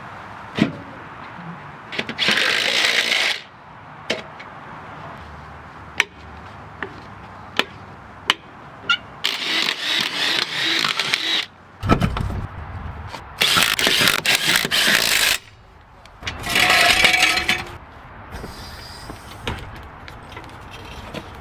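Hand work on a car: sharp metal clicks and knocks, broken by four bursts of hissing noise, each a second or two long.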